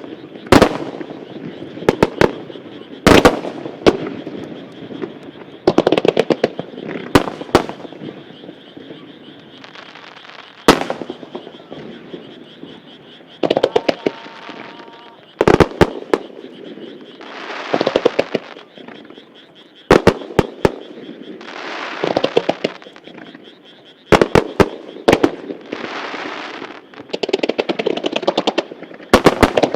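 Fireworks starmine barrage: aerial shells bursting with sharp bangs in quick clusters, with several stretches of hissing crackle between them.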